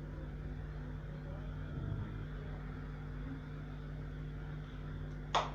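A steady low hum with no change, and one brief sharp sound near the end.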